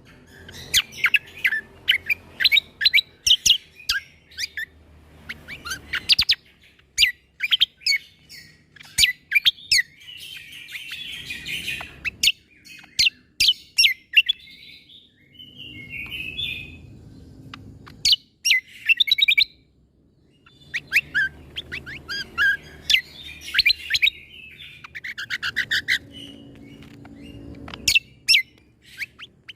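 Cucak kombo (kecial kombo) singing: phrases of sharp, rapid 'shot' notes and chirps, separated by short pauses.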